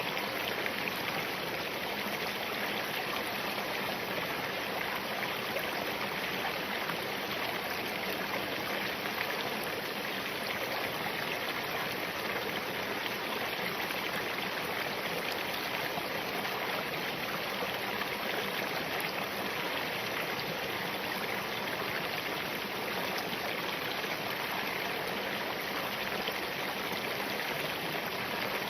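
Spring-fed mountain stream running over rocks: a steady, even rush of water.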